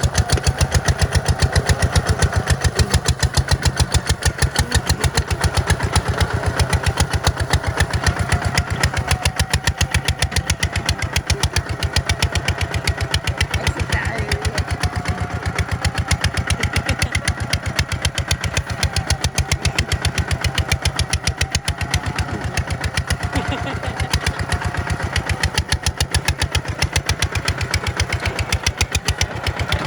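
Tractor diesel engine running steadily with a fast, even chugging beat.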